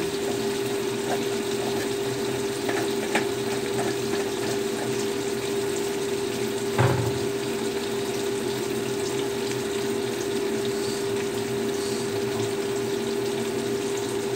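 Fried tofu in sauce sizzling and bubbling in a wok over a gas flame, the sauce reducing to thicken, with small crackles throughout over a steady hum. A single knock sounds about seven seconds in.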